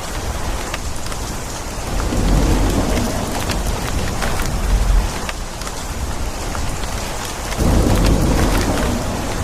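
Steady heavy rain pattering with many small drop ticks, and thunder rumbling low beneath it, swelling about two seconds in and again near the end.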